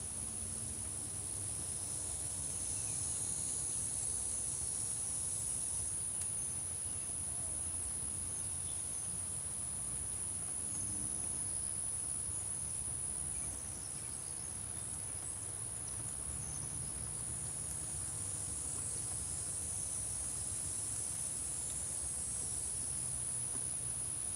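A steady, very high-pitched insect chorus of crickets or katydids droning without a break, with a few faint short chirps beneath it.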